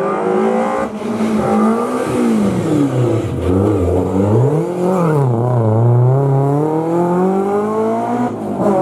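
Historic rally car engine running hard through a hairpin. The pitch drops as it slows into the bend, goes up and down a couple of times mid-corner, then climbs steadily as it accelerates out, with a gear change near the end.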